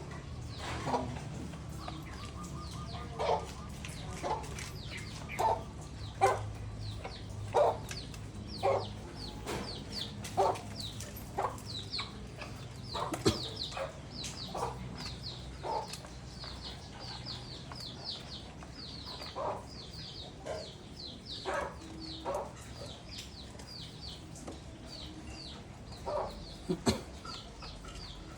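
Birds calling in a loft: short low calls roughly once a second, over many quick high chirps that each fall in pitch, with a steady low hum underneath.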